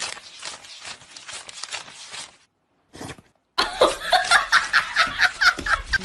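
A person laughing: quiet breathy snickers at first, then, after a brief break, louder rapid laughter of about five bursts a second.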